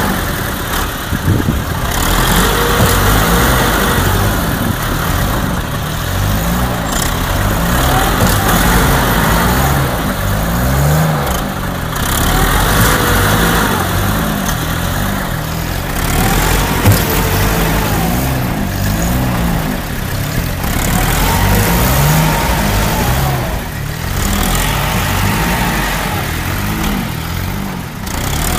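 Vehicle engine running hard, its revs rising and falling again and again.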